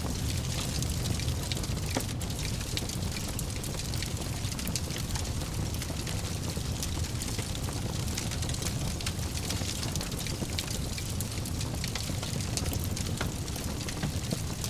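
Fireplace fire crackling, with frequent small pops over a steady low rumble of the flames.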